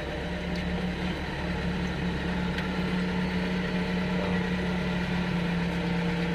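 A running machine's steady low hum with a constant drone throughout.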